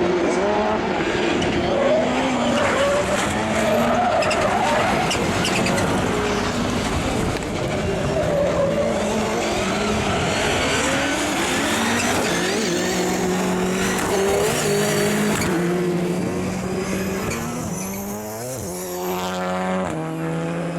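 Several rallycross Supercars racing together, their engines revving up and falling away through gear changes over a steady din of tyre and loose-surface noise. Near the end one engine revs up sharply and then holds a steady high note.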